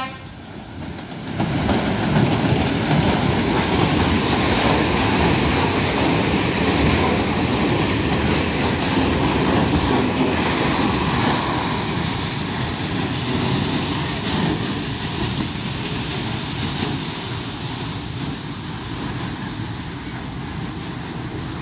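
Freight train rolling past close by, its open wagons' steel wheels rumbling and clacking over the rail joints. The noise builds about a second in, holds, then slowly fades in the second half.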